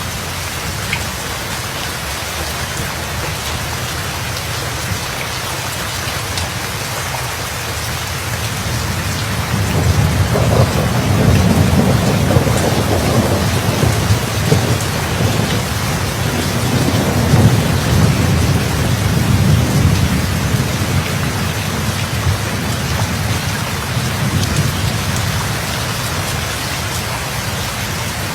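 Steady heavy rain with a long roll of thunder that builds about ten seconds in, rumbles for around ten seconds and slowly fades back under the rain.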